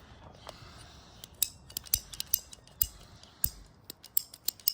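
Irregular sharp clicks, about a dozen, with a few soft low thuds among them: small hard parts being handled.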